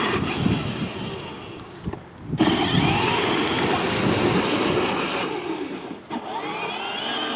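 Battery-powered ride-on toy car's electric drive motor whining in three runs as the pedal is pressed and released, its pitch rising as the car picks up speed, with the battery running low.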